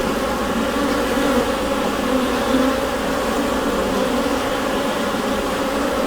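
Honeybee colony buzzing inside a hive: a dense, steady hum of many bees.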